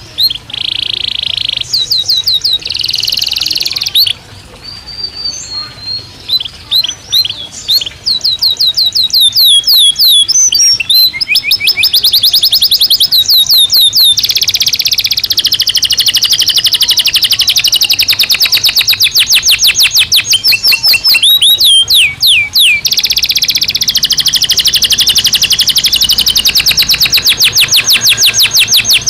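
Domestic canary singing a long, loud song of fast trills: rapid rows of repeated falling notes that switch from one trill to another every few seconds, with short rolling passages in between.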